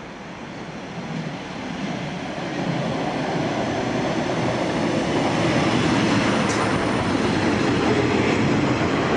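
Class 142 Pacer diesel railbus approaching and passing close by. Its engine and wheels on the rails grow steadily louder over the first three seconds, then stay loud as the car goes by, with a brief high screech about six and a half seconds in.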